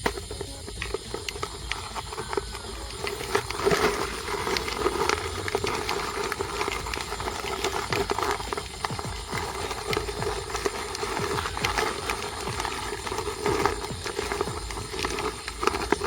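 Irregular clicks and knocks over a steady rustling noise.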